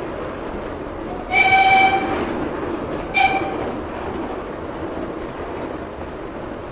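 Miniature railway train running through a tunnel, its wheels rumbling steadily on the rails, as the locomotive gives two warning blasts: a long one about a second in, then a short one.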